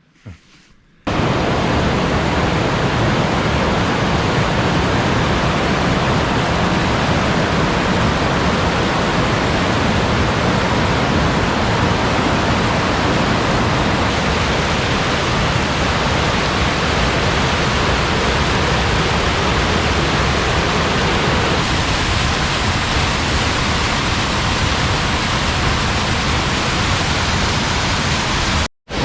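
Steady, loud rush of a waterfall's falling water, an even roar with no change in pitch, starting abruptly about a second in and briefly cut off just before the end.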